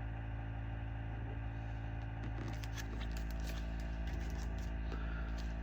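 Steady low electrical hum, with faint light rustles and ticks from about two and a half seconds in, as paper pattern charts are handled.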